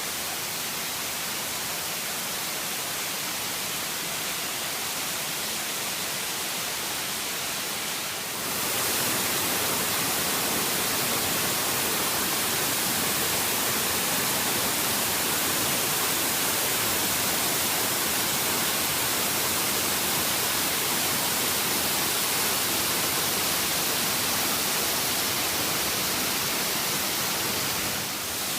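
Waterfall rushing, a steady hiss of falling water. About eight seconds in it briefly dips, then comes back louder and brighter.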